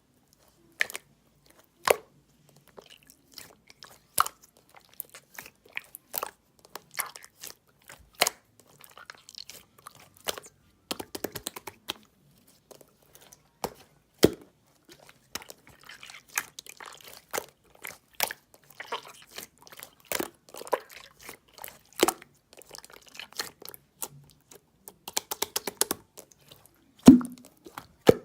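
Clear slime being squeezed and folded by hand, giving irregular sharp clicks and pops from trapped air, with quick runs of small pops now and then and one louder pop near the end.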